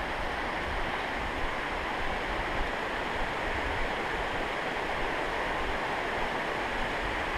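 Steady rushing of a creek's water, an even hiss, with an uneven low rumble beneath it.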